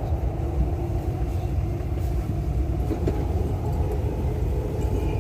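Dubai Metro electric train running between stations, heard from inside the carriage: a steady low rumble.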